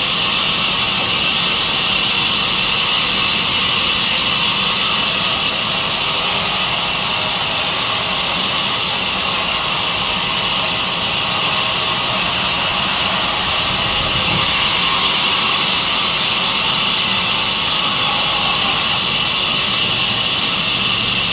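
Sawmill saw machine running steadily: a continuous loud hiss over a low hum, unchanging throughout.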